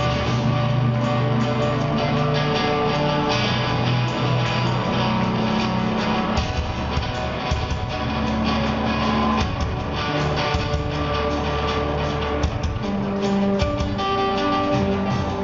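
Rock band playing an instrumental passage: electric guitars over held bass notes and drums.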